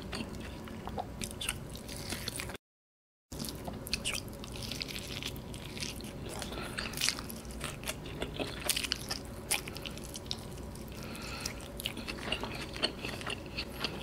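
Close-up chewing and biting of crisp-coated fried chicken on the bone (karaage), with many small irregular crunches and mouth clicks. The audio drops out completely for under a second about two and a half seconds in.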